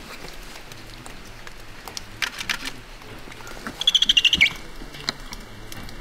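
A bird gives a quick run of about eight high chirps, falling slightly in pitch, about four seconds in. A few faint clicks come about two seconds in.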